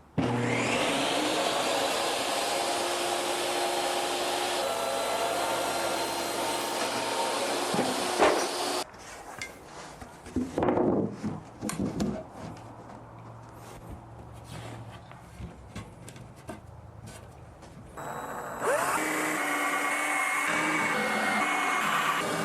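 An electric motor, a power tool or shop vacuum, spinning up and running steadily, stopping abruptly about nine seconds in. A quieter stretch of clicks and knocks follows, then the motor spins up again near the end.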